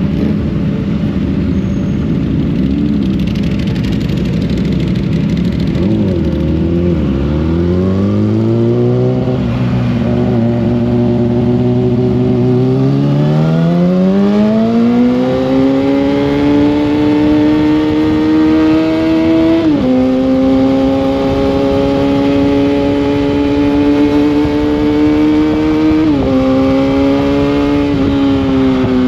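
Sportbike engine heard onboard, pulling hard: the revs climb steadily, then drop sharply with an upshift about twenty seconds in and another about twenty-six seconds in, with a steady rush of wind noise underneath.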